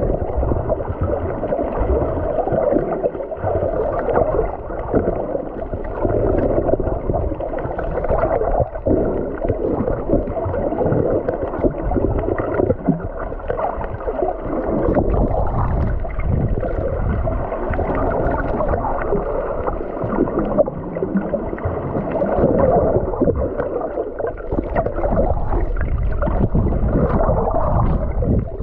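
Muffled gurgling and sloshing of water heard underwater, a continuous churning noise that rises and falls without a break.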